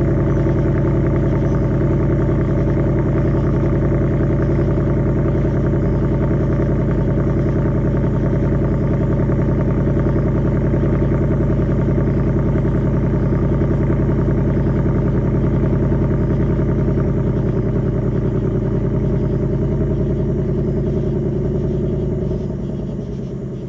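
2025 Ford Mustang GT's 5.0 L V8 running at a steady raised cold-start idle through the factory active exhaust. Near the end the engine note drops in pitch and gets a little quieter as the idle comes down.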